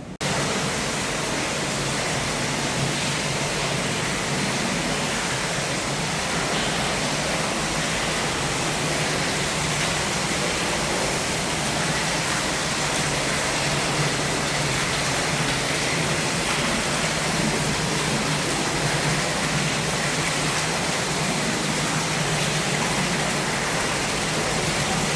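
A boat's motor running steadily under a loud, even rush of water and wind, with a constant low hum.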